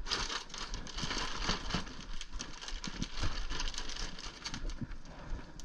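Irregular rustling with many small taps and clicks: objects and packaging being handled and moved around.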